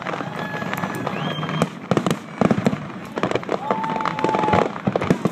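Fireworks display going off in rapid succession, a dense run of bangs and crackling from many shells at once. Thin whistles are heard about a second in and again near four seconds.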